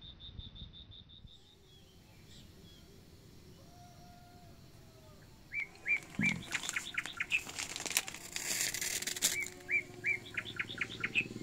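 Birds chirping in quick series of short, high, repeated notes, starting about five seconds in after a quiet stretch and growing busier near the end.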